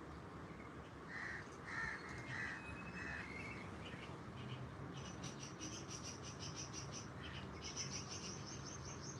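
Crows cawing, about four caws in the first few seconds, then from about halfway in a fast run of high, thin bird chirps.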